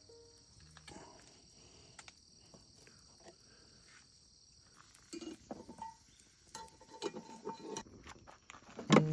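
Scattered faint clicks and clinks over a steady high hiss, with a few short tones about six to eight seconds in; piano music starts right at the end.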